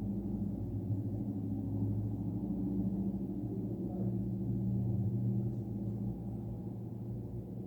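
A steady, low mechanical hum made of a couple of held tones, like a running motor or pump.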